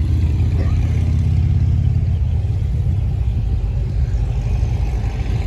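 Car engine idling nearby, a steady low rumble.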